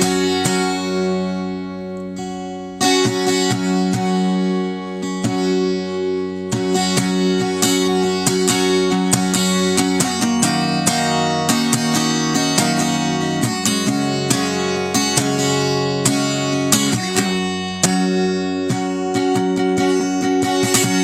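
Acoustic guitar strumming chords. About half a second in, a chord is left to ring and fade, then the strumming picks up again at about three seconds and carries on steadily.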